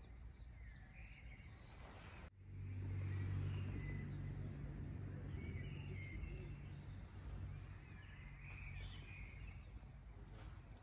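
Birds chirping outdoors. About two seconds in, after a brief dropout, a low steady engine hum comes in and slowly fades away.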